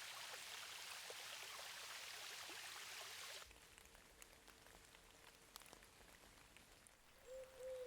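Faint patter of rain, an even hiss that cuts off abruptly about three and a half seconds in. After that it is near silence with a few faint ticks and a faint steady tone that grows a little louder near the end.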